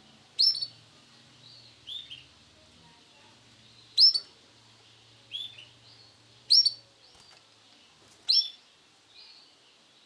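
Male canary calling: short, sharp chirps, one every one to two seconds, alternating louder and fainter, rather than a continuous song.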